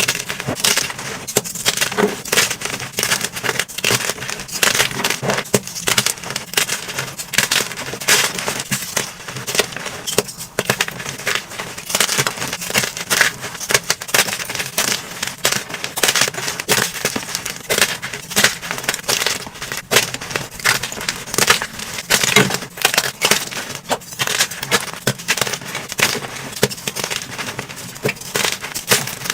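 Blocks of dyed gym chalk being crushed and crumbled by hand, a dense run of soft, dusty crunches and crackles without a break.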